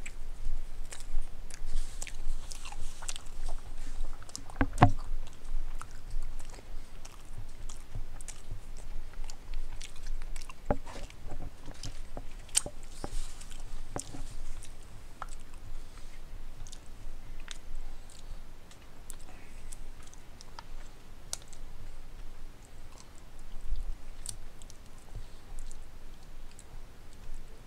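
A person biting into and chewing a slice of pizza, picked up close by a headset microphone, with many small wet mouth clicks. Two sharper knocks come about five and eleven seconds in.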